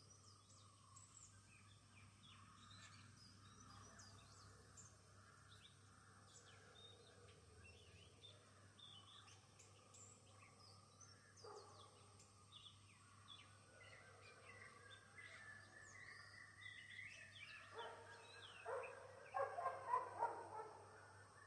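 Faint morning birdsong: many short chirps and calls from several birds. Near the end a dog barks several times in quick succession, the loudest sound here.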